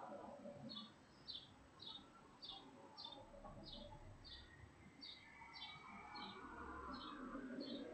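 A bird calling in a steady series of short high chirps, about one and a half a second. Faint street traffic swells in the second half.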